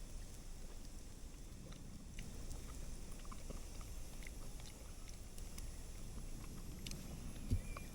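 Wood fire crackling with scattered small pops over a low rumble, and one dull thump near the end.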